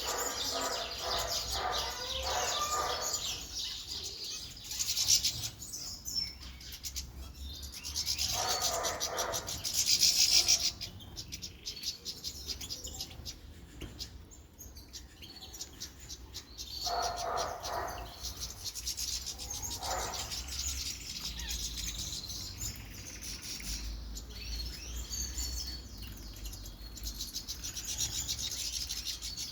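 Small pet songbirds chirping and twittering steadily while bathing, with short bursts of splashing and wing-fluttering in the bath water, loudest about five and ten seconds in.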